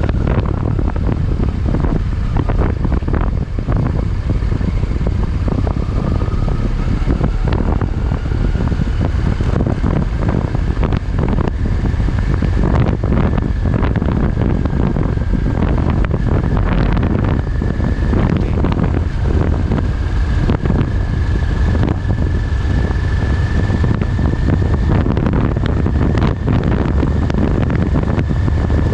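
Motorcycle being ridden at speed, heavy wind noise buffeting the microphone over the engine, with a thin whine that climbs slowly in pitch through the stretch.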